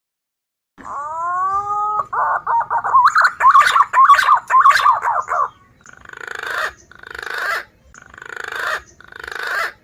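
Recorded green pigeon (punai) calls played as a trapping lure. It opens with a rising whistle, runs into a fast warbling trill, and ends with four harsh, rasping notes.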